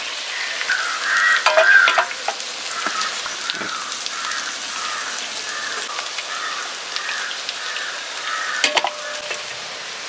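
Chicken pieces sizzling in hot coconut oil in a wide pan as the fried pieces are lifted out with a slotted steel spoon. A few sharp clinks of the spoon against the metal near the end.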